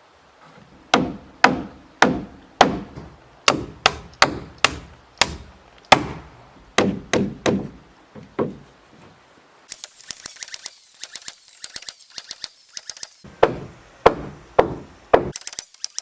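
Hammer blows on wood in a steady series, about two a second, like nails being driven into lumber. In the middle they give way to a few seconds of rapid fine clicking, then the hammering resumes briefly before the clicking returns near the end.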